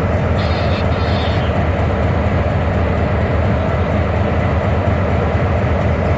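Excursion train rolling along the track, heard from inside a passenger car as a steady, even rumble. Two short high squeaks come about half a second and a second in.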